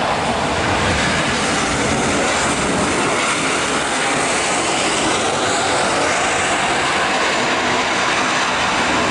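Airbus A320-214 jet airliner passing close overhead on its landing approach, its CFM56 turbofan engines making a loud, steady roar. A faint whine falls in pitch through the middle as it goes by.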